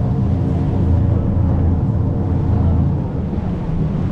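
A boat's diesel engine running steadily with a low hum, easing off slightly about three seconds in.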